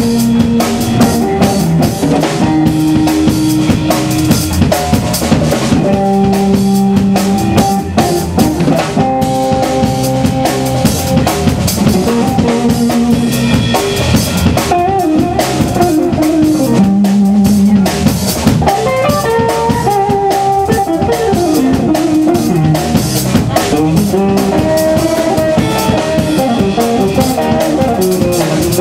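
Live blues band playing, with a drum kit keeping a steady beat with rimshots under guitar lines.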